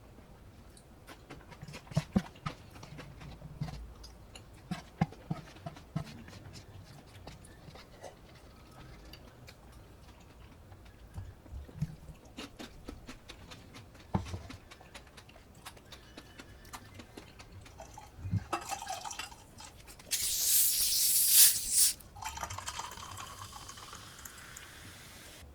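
Soft chewing clicks, then a drink poured into a cup. A loud hiss comes about two-thirds of the way in, and near the end the pouring rises in pitch as the cup fills.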